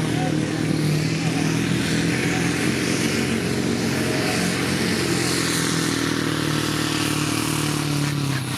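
Supersport pulling truck's engine held at high revs under full load while pulling the sled, a loud steady drone.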